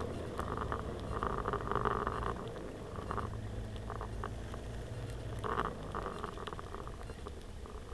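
Scooter engine idling with a low, steady hum that grows quieter toward the end.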